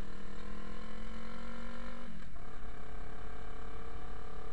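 Motorcycle engine pulling under way, its note climbing steadily. About two seconds in it breaks off and drops in pitch for an upshift, then climbs again, with a low rumble of wind on the microphone. The engine is still cold, and the rider says it runs rough until it warms up.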